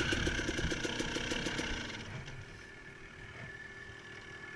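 Dirt bike engine running with a rapid, even beat, then fading away about two seconds in and leaving a faint steady engine hum.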